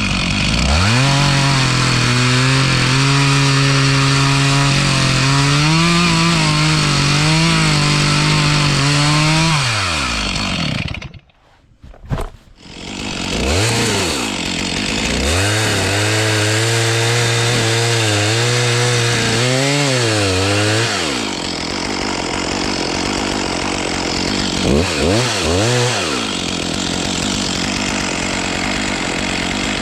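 Stihl two-stroke chainsaw cutting through dead spruce. Its engine pitch drops and holds lower while the chain is in the wood, in two long cuts separated by a brief dropout about a third of the way in. It ends running at high revs with a few short blips.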